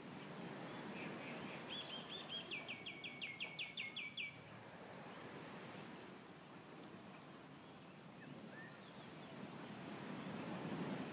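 A bird sings a quick trill of about a dozen repeated high chirps lasting about two seconds. Under it is a steady low outdoor rush that swells near the end.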